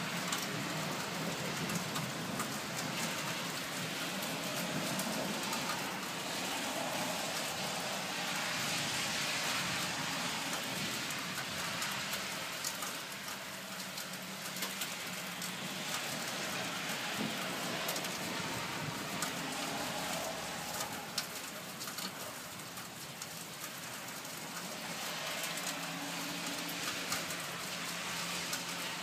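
Steady rain falling during a thunderstorm, with scattered sharp ticks of nearby drops.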